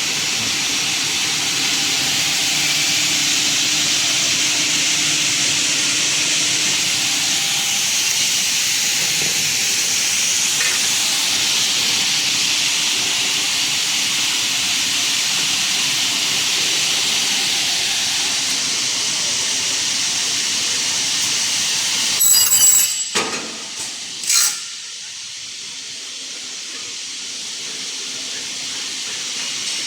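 Semi-automatic double-head circular saw machine for aluminium profiles running with a steady hissing whir. About three-quarters through there is a short burst of clattering knocks and then one more sharp knock, after which the running noise drops lower.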